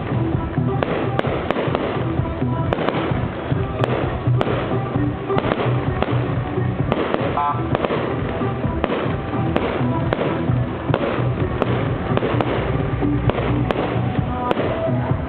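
Fireworks display: a rapid, continuous series of bangs and crackles, several a second, with music playing at the same time.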